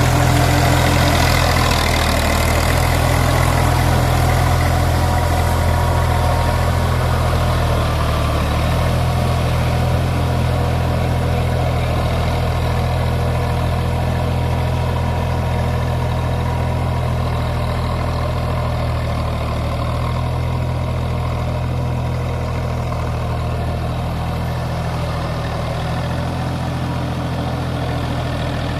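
Massey Ferguson tractor's diesel engine running steadily at a low, even speed, its level fading slightly toward the end.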